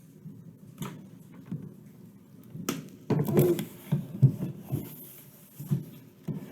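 A toy's packaging box being handled and turned over by hand: scattered knocks, taps and rubbing, busiest a little past the middle.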